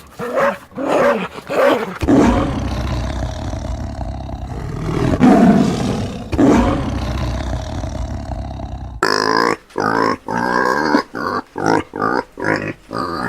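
A few dog barks, then a big cat roaring in one long rough call for about seven seconds, swelling in the middle. It is followed near the end by a quick series of short grunts, like a pig's.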